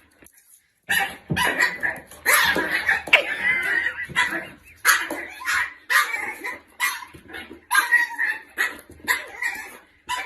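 A dog barking over and over, starting about a second in, with short barks coming every half second to a second.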